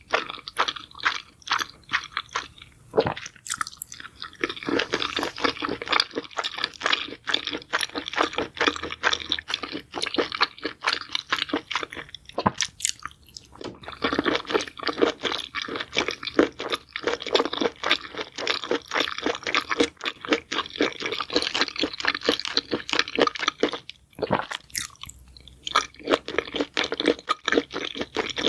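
A person chewing crunchy food close to the microphone: long runs of rapid crunches, with short pauses about three, twelve and twenty-four seconds in.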